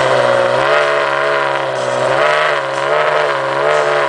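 Ferrari P4/5's Enzo-derived V12 running at idle, loud and steady, its pitch swelling up and down gently a few times.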